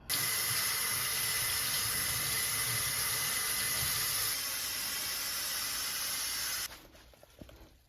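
Water running from a tap, a steady rush that comes on suddenly and cuts off after about six and a half seconds.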